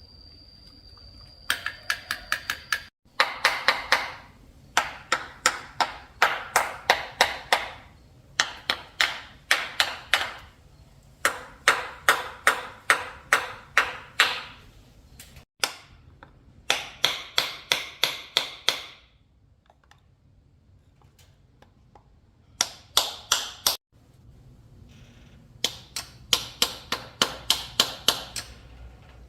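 Metal being struck with a hammer in quick runs of about five ringing taps a second, in bursts of one to two seconds with short pauses and a longer lull about two-thirds of the way in. A faint steady high whine sounds in the first couple of seconds, before the tapping starts.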